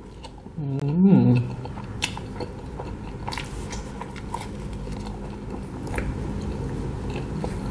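Close-miked mouth sounds of a man biting into and chewing a slice of durian cheese pizza: soft chewing with many small clicks, and a short hum about a second in.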